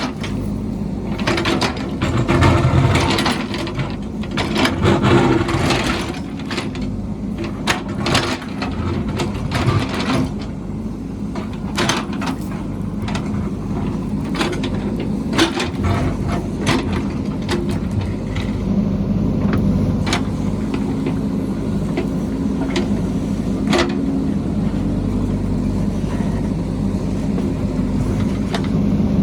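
A heavy construction machine's diesel engine running steadily under load, with many sharp metallic clanks and knocks from the machine working, frequent in the first half and sparser later.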